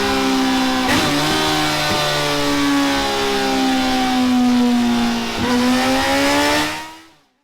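Kawasaki ZZR1400's inline-four running hard through Delkevic X-Oval titanium silencers on a dyno. The engine note holds high and slowly sags in pitch, with a brief break and change in note about a second in and again near the end, then fades out.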